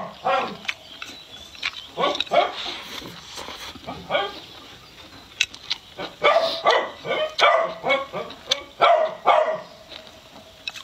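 Close-miked chewing and wet mouth clicks from eating a mouthful of rice, pork and vegetables, in a run of short, loud, separate bursts that come thickest from about six to nine and a half seconds in.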